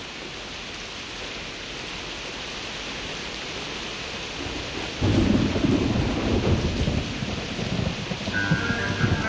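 Steady rain hiss, with a heavy rumble of thunder breaking in suddenly about five seconds in. Music starts near the end.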